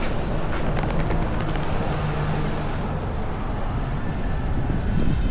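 Strong wind buffeting the microphone, a steady low rumble with street noise underneath.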